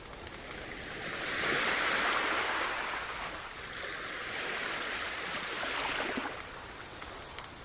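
Sea waves washing onto the shore: a wave swells up about a second in and slowly ebbs away, with a few light crackles over the wash.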